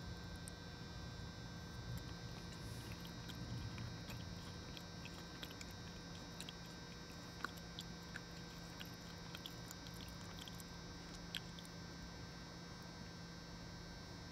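A person chewing french fries: soft, scattered mouth clicks and smacks, a little denser in the first two thirds, over a steady background hum.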